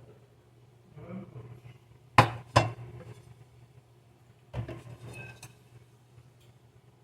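Dishes and serving utensils clinking and knocking during plating: two sharp knocks a little over two seconds in, then a cluster of lighter clinks with a brief ring around five seconds in.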